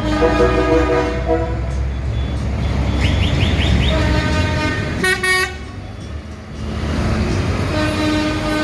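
Tractor engines running as tractors pass, with horns sounding over them: a quick run of short high chirps about three seconds in and a loud short toot about five seconds in.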